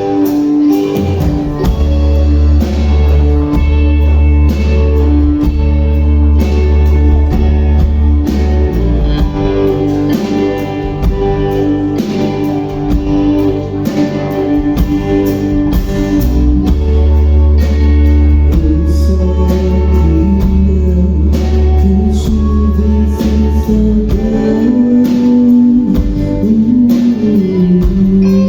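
Rock band playing live: guitars over sustained bass notes and a steady drum beat.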